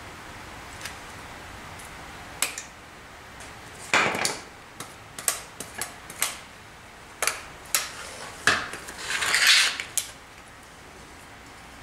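Metal hand tools and parts clinking and clattering: about a dozen sharp knocks and clinks over several seconds, ending in a longer rattling clatter near the end.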